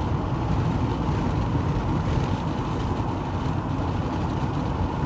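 Steady road and engine noise of a moving vehicle, strongest in the low end, with a faint steady whine.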